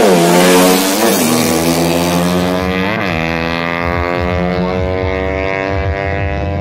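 Racing underbone motorcycle engine held at high revs with a steady pitch, with brief throttle blips near the start, about a second in, and about three seconds in.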